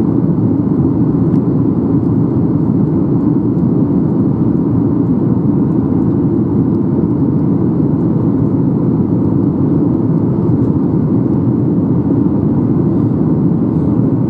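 Steady cabin noise inside a Boeing 737-800 in flight: the dense, even rush of its CFM56 turbofan engines and airflow over the fuselage, with no change in pitch or level.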